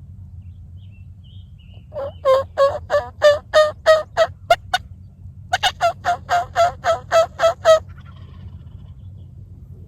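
Turkey yelping: two runs of about ten evenly spaced, loud yelps at roughly three a second, the second run starting about a second after the first stops.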